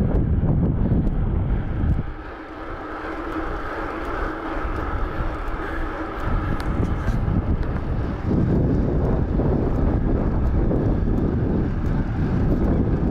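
Wind buffeting a mobile phone's microphone while cycling: a heavy rumble that eases for a few seconds about two seconds in, then returns. A faint steady hum runs underneath.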